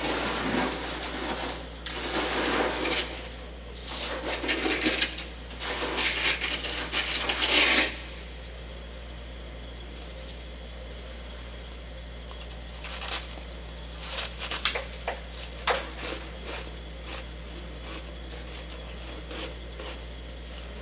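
Close-miked chewing of soft freezer frost: loud, dense crunching in repeated bursts for about eight seconds, then quieter scattered crackles and clicks.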